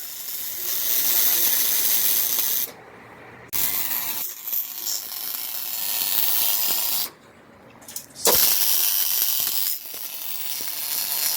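Pneumatic shop tools working on a car's exhaust system, running in hissing, whirring spells that start and stop abruptly a few times, with a sharp click about eight seconds in.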